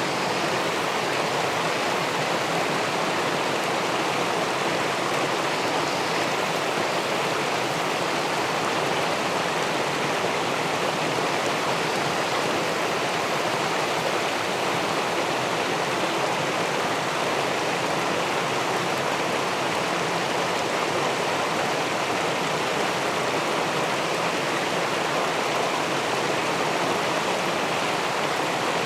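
River water rushing steadily over and below a small weir: a continuous, even rush of flowing water with no change.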